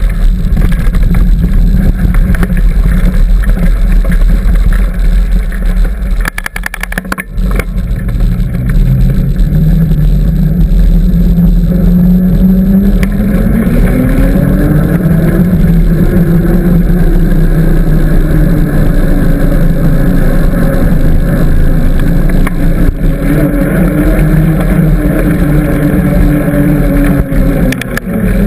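Loud wind rushing over the microphone of a camera riding on a moving mountain bike, with a pitched hum that comes in about nine seconds in, rises, holds and fades near the end.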